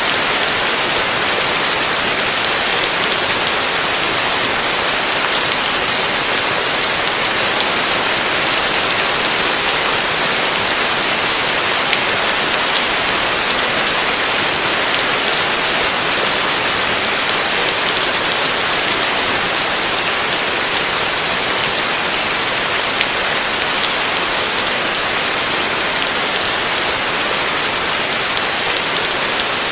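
Heavy rain falling on a roof, a steady dense hiss of countless drops with no letup.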